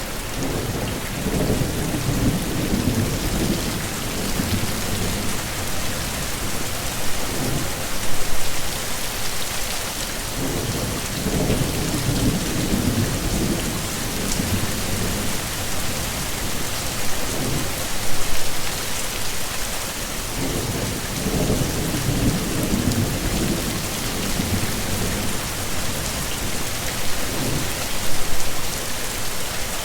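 Steady heavy rain hissing, with low rolling thunder rumbles swelling three times, about ten seconds apart.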